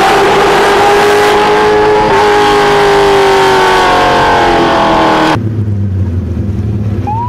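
LS3 V8 of a 1989 BMW 325i drift car running hard at high revs, its pitch holding and then slowly sinking. About five seconds in it cuts off abruptly, leaving a low steady hum.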